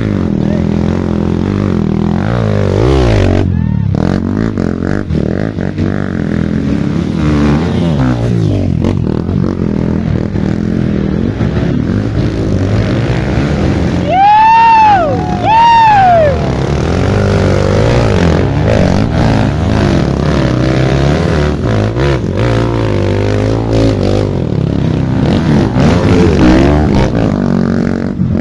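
Off-road trail motorcycle engines running and revving, their pitch rising and falling as they ride. About halfway through come two loud, high tones, each rising and then falling.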